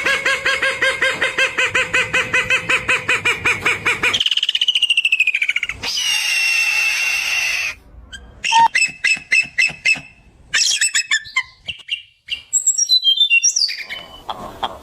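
A string of different birds' calls and songs, changing every few seconds: a fast run of repeated chirps, then falling whistled glides, a held drawn-out call, rapid clicking notes, and high falling whistles near the end.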